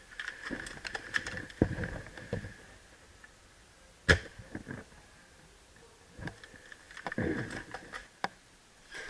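Airsoft gunfire: a loud single snap about four seconds in, with scattered quieter clicks and shots around it. Low rustling thuds of movement come at about two and seven seconds.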